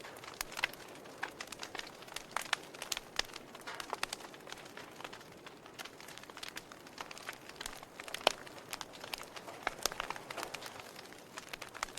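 Wood fire crackling: irregular sharp pops and snaps of burning logs over a soft hiss, with one louder pop about eight seconds in and a quick cluster of snaps around ten seconds.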